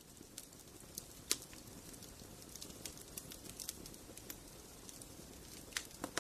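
Wood fire crackling: irregular sharp pops and snaps, the loudest about a second in, over a low steady hiss of the flames.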